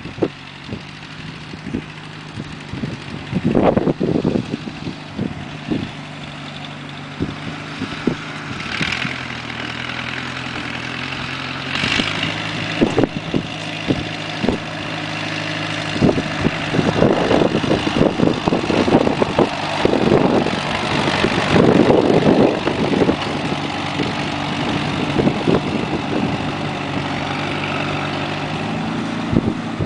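Small garden tractor engine running, its hum shifting up and down in pitch several times as the speed changes, with gusts of wind hitting the microphone.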